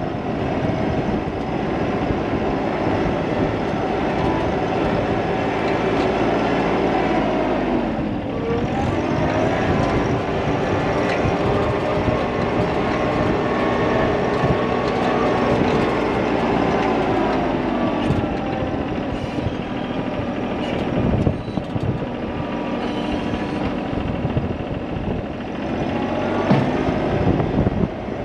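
A large vehicle or machine engine running continuously. Its pitch drops about eight seconds in and falls and shifts again later, as the revs change under load, with a few knocks along the way.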